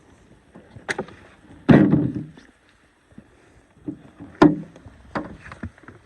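A few sharp knocks and one heavier thud about two seconds in that lingers briefly, like objects being set down or handled on a hard surface.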